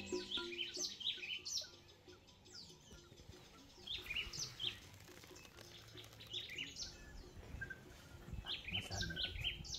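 Small birds chirping: a few separate runs of short, high, downward-slurred notes with pauses between them.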